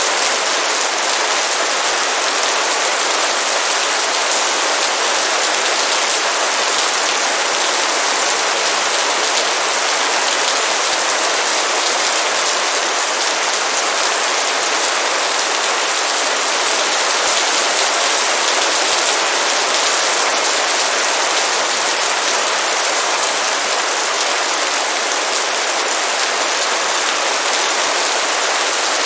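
Heavy rain falling in a steady downpour: a dense, even hiss of drops with no let-up.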